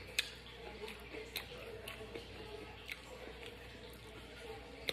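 Close-up chewing of a mouthful of hard corn taco shell with filling: soft wet mastication with a few sharp, irregular clicks and crunches.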